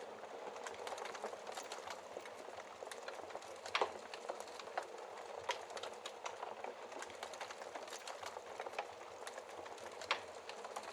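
Wood fire crackling: a steady hiss with dense small crackles and a few louder pops, the loudest about four seconds in and again near the end.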